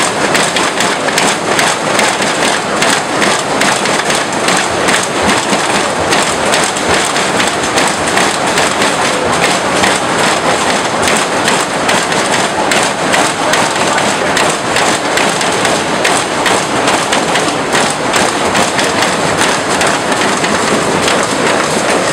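Many riot police beating batons against their shields: a loud, dense clatter of overlapping knocks that keeps up steadily throughout.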